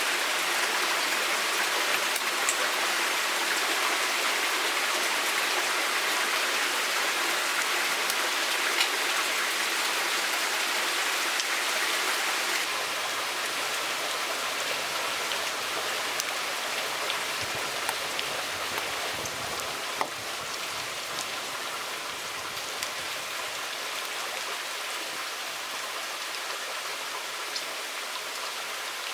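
Steady hiss of water with scattered sharp drip-like ticks, easing slightly about twelve seconds in.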